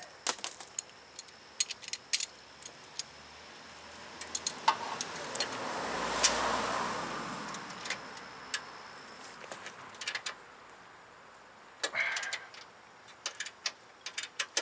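Irregular metallic clicks and clinks of a ratchet and hand tools working a loosened steering-rack bolt. In the middle a passing car swells up and fades away.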